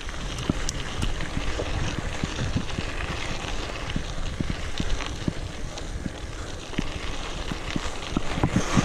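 Wind buffeting the microphone with a low rumble, over a scatter of light knocks and rattles.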